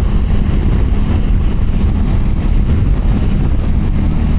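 Motorcycle engine running steadily at cruising speed, with wind noise on the rider's microphone.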